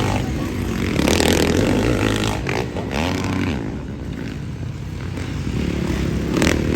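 Motocross motorcycles racing, their engines revving up and down in pitch as they pass. The engines are loudest about a second in and again near the end.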